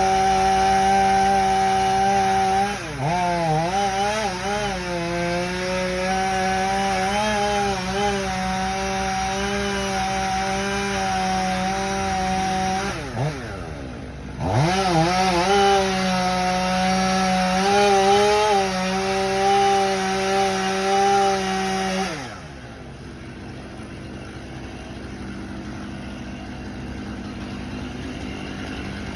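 Chainsaw running at high speed, cutting wood, its pitch sagging and recovering a few seconds in. It drops off briefly, revs back up, then cuts out about three-quarters of the way through, leaving a quieter steady noise.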